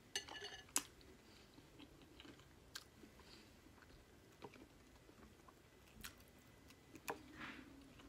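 Quiet, close-miked chewing of boiled egg: soft mouth sounds with a few sharp clicks. A brief ringing clink comes near the start.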